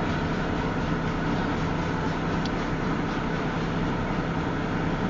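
Freight train of tank cars rolling past slowly: a steady rumble with a low, even hum.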